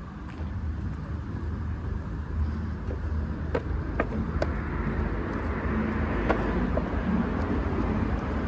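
Steady low rumble of a moving road vehicle, with a few sharp clicks about halfway through.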